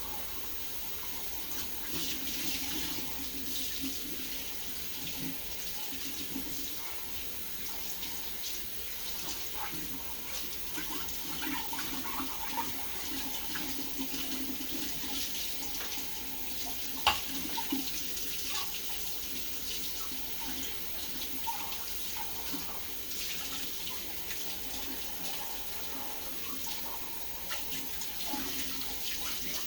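Kitchen tap running into the sink while dishes are rinsed and handled, with scattered small clinks and one sharp clink of a dish a little past halfway.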